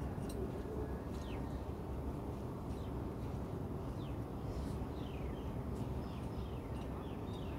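Birds calling with short, falling chirps, one or two a second, over a steady low rumble.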